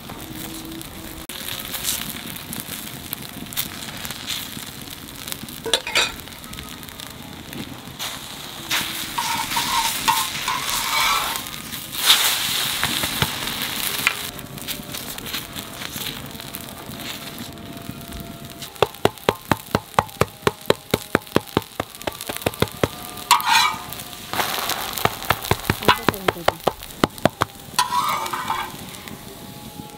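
Egg paratha frying on a hot griddle with a steady sizzle, while metal utensils scrape and tap on the griddle surface. Two stretches of quick, even taps come about two-thirds of the way through.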